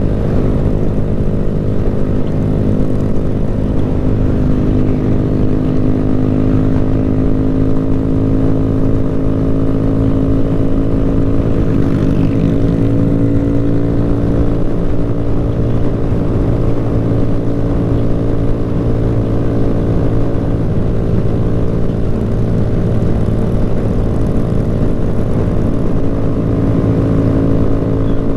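Motorcycle engine running continuously at a nearly steady pitch, holding an even speed with only slight rises and dips.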